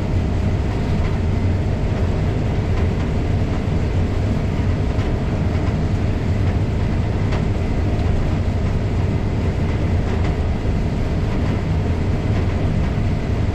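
Case IH 7230 combine harvester running steadily while harvesting corn through a draper header, heard from inside the cab: an even, loud, low drone of engine and machinery.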